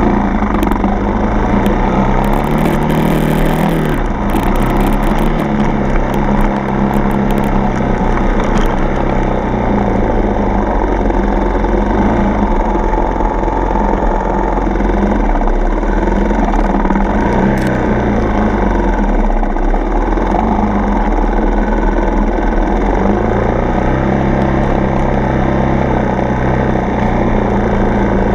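Dirt bike's single-cylinder four-stroke engine running on the trail, its revs rising and falling again and again with the throttle and gear changes, under steady wind and riding noise. A patch of sharp clicks and rattles comes about two to four seconds in.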